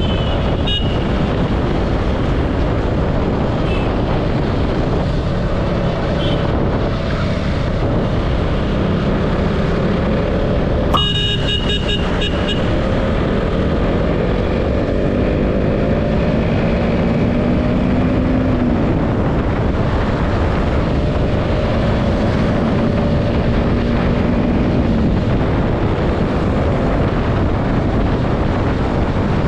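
KTM Duke 200's single-cylinder engine running under way through heavy road and wind noise. Its pitch climbs as the bike accelerates and drops at a gear change past the middle. About eleven seconds in, a vehicle horn beeps in quick pulses for about a second and a half.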